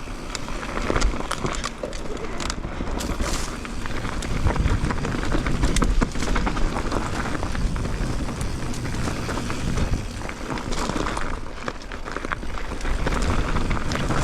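Mountain bike ride noise through a GoPro's microphone: wind rumbling on the mic, knobby tyres rolling over rocky ground, and the bike clattering and rattling with a constant run of small knocks and clicks.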